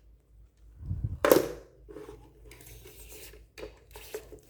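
Handling noise from a Dyson cordless vacuum attachment: a low thump and a sharp knock about a second in, then light clicks and rustling as the part is handled.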